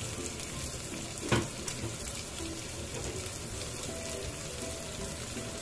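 Freshly added sliced onions frying in hot oil with whole spices in a kadai: a steady sizzling hiss, with a single sharp knock about a second in.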